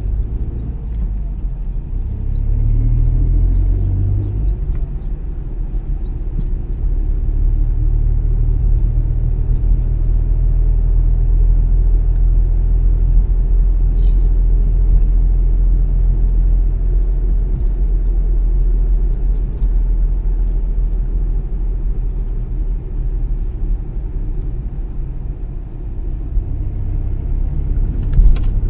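Car driving on the road: a steady low rumble of engine and tyre noise, the engine note climbing in the first few seconds as the car picks up speed and then holding steady. A sharp click near the end.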